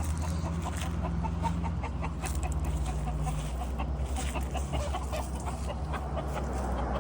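Chickens clucking, a rapid run of short clucks, over a low steady hum.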